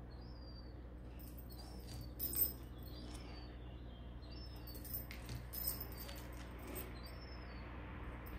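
A small bird chirping in short high notes, roughly once a second, over the crinkle and crackle of paper-foil sample sachets being handled, with the sharpest crackle a little over two seconds in.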